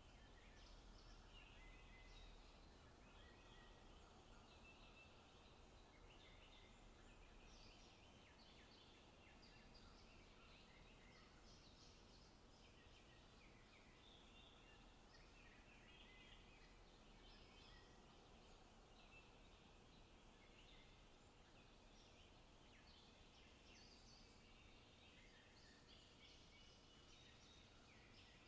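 Faint forest ambience: many small birds chirping and singing over one another throughout, over a low, even rumble.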